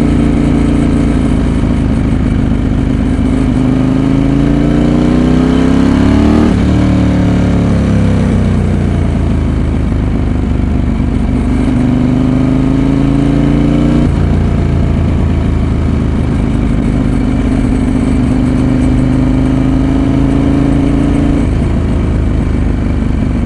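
Ducati 916's V-twin engine under way, heard close up. Revs climb for about six seconds, drop sharply, sink and climb again, change abruptly about fourteen seconds in, then hold fairly steady.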